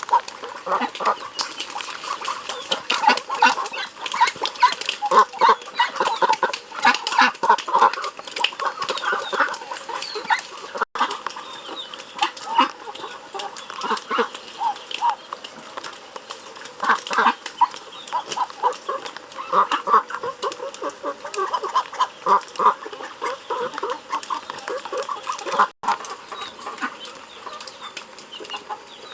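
A flock of chickens clucking and calling continuously, many short overlapping calls. Two very brief breaks come about a third of the way in and near the end.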